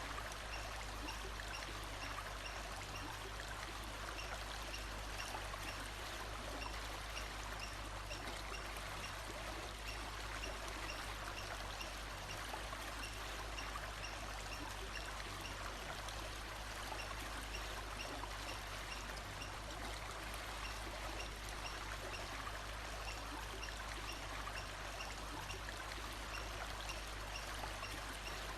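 Steady rushing of a forest stream, with a faint high chirp repeating at an even pace through the first half.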